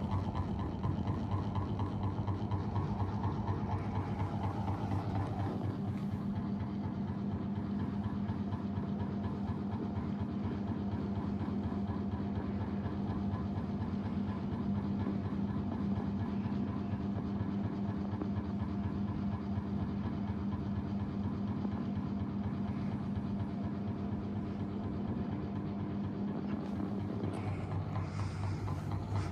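GMC 800 mm mini ceiling fan running with a steady electric motor hum. The hum changes about six seconds in and again shortly before the end.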